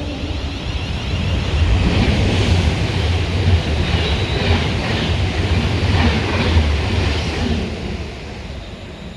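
Train passing: a loud rumble that builds about two seconds in, holds, and fades near the end.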